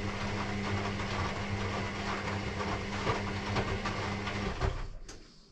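Electrolux EW6S404WU washing machine's drain pump running: a steady low hum under rushing, gurgling water that cuts off about five seconds in.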